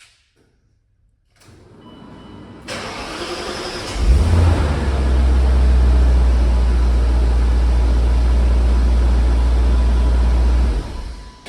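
BMW 540i's V8 cold-started, heard at the tailpipe: it starts up about three to four seconds in and settles into a steady, deep, even idle, dropping away near the end.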